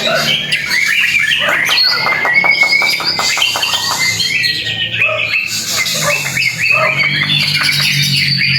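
White-rumped shama singing a loud, varied song, with a fast run of repeated notes between about one and three seconds in.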